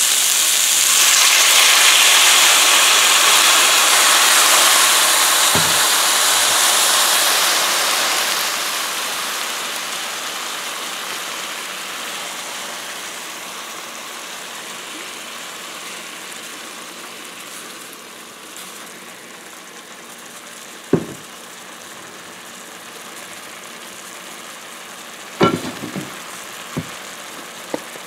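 Sliced onions and ginger sizzling in hot oil in a stainless steel pan. The sizzle is loud for the first several seconds, then dies down to a quieter, steady hiss. A few sharp knocks come near the end.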